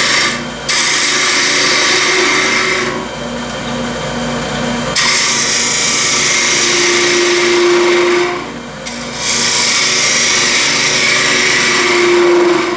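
Wood lathe running while a turning tool cuts a bubinga button, a steady cutting hiss over the lathe's hum. The cut breaks off briefly about half a second in and again near 9 seconds, and is lighter for a couple of seconds around the 3–5 second mark.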